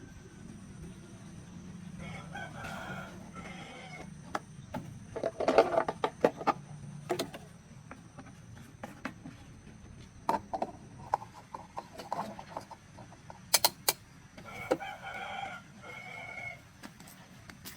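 A rooster crowing twice, once a couple of seconds in and again near the end, each crow lasting under two seconds. Scattered sharp clicks and knocks fall between the crows, with the loudest cluster about five to seven seconds in.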